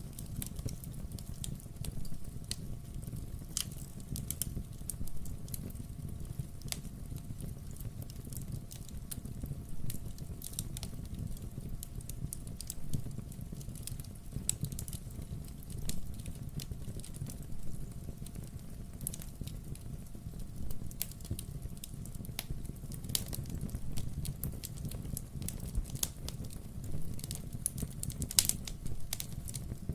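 Wood fire burning in a fireplace: a steady low rumble of the flames with frequent irregular crackles and small pops from the burning logs.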